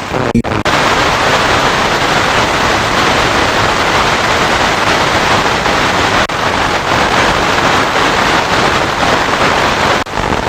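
FM radio static: a steady, loud hiss of noise from the receiver with no station coming through, broken by a brief dropout just after the start.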